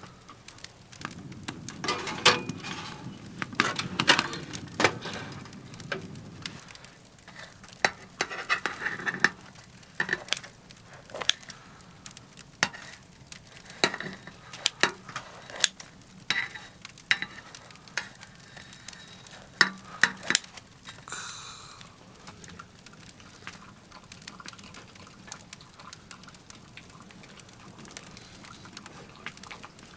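Firewood burning in a small titanium wood stove, crackling with irregular sharp pops and snaps. There is a denser rustle in the first few seconds and a short hiss past the middle.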